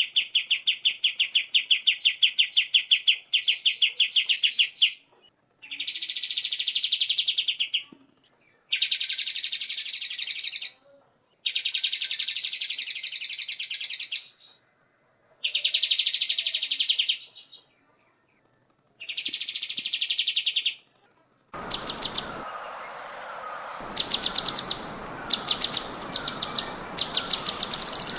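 Recorded songbird song in rapid buzzy trills, delivered in bouts of about two seconds with short pauses between them. About 21 seconds in, it cuts to a different recording with a steady hiss behind it and shorter repeated trill bursts.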